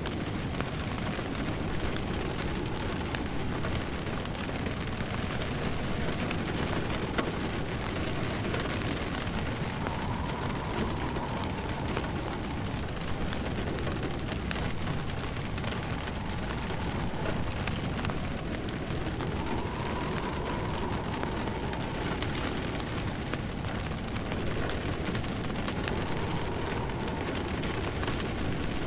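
Steady rain with a wood fire crackling through it, and a soft wind whistle that rises and falls three times.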